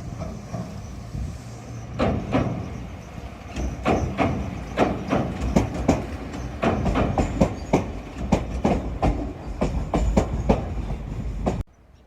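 Shizuoka Railway electric train passing close by, its running rumble broken by a rapid run of sharp clacks as wheelsets strike the rail joints. It cuts off suddenly near the end.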